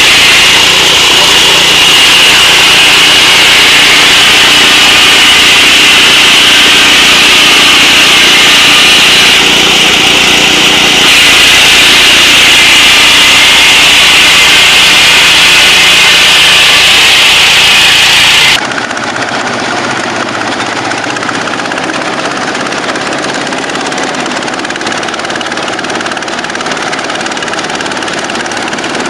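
Engine-driven machinery running steadily and loudly, with a strong high-pitched hiss. About two-thirds of the way in it switches abruptly to a quieter engine running.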